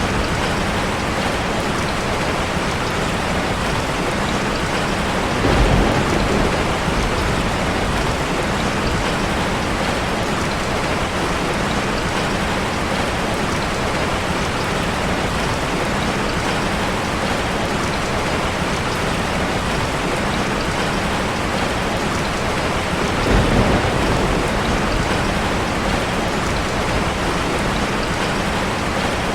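Steady rush of falling water from a waterfall ambience, an even hiss with no pauses. It swells twice with a deeper rumble, about six seconds in and again about 23 seconds in.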